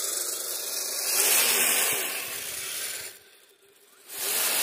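Electric drivetrain of a radio-controlled snow vehicle whining and rattling as it drives through snow, its pitch rising and falling with the throttle. The noise cuts out for about a second near the end, then comes back.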